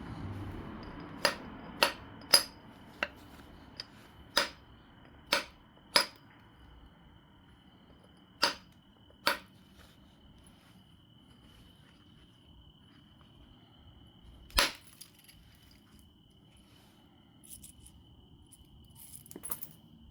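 Obsidian being flintknapped: a series of sharp, irregular clicks as flakes come off the biface, several in quick succession, then fewer, with one louder strike about two-thirds of the way in and a few faint clinks near the end.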